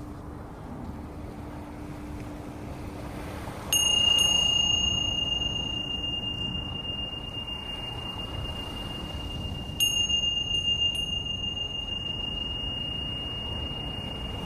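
A small high-pitched metal bell or chime struck about four seconds in and again near ten seconds, each strike ringing on at one clear tone and fading slowly. Under it runs a steady wash of surf and wind.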